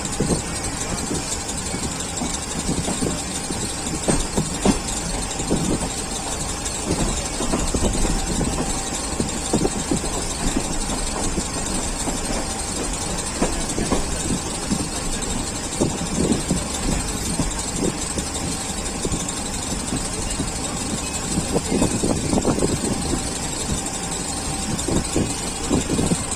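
Passenger train running along the track, heard from inside the carriage: a steady rumble with irregular clatter and knocks from the wheels and running gear, and a faint thin squeal above it.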